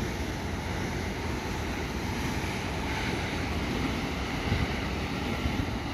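JR West electric commuter train running along the track past the platform: a steady rumble of wheels on rail.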